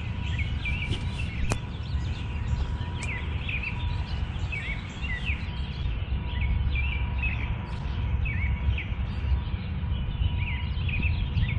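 Small songbirds chirping over and over in short, quick calls, against a steady low rumble. A single sharp click comes about a second and a half in.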